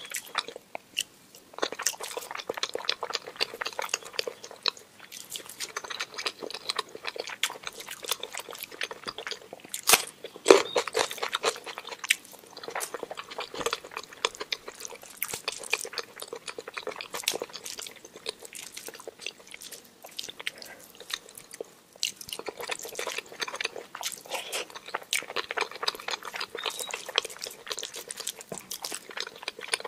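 Close-miked chewing and wet mouth sounds of someone eating rice, dal, mashed potato and omelette by hand, a dense run of small clicks and smacks with a louder burst about ten seconds in.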